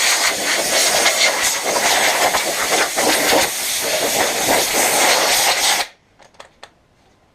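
Compressed air blowing dust off the vacuum's reassembled parts: a loud, steady hiss that cuts off suddenly about six seconds in.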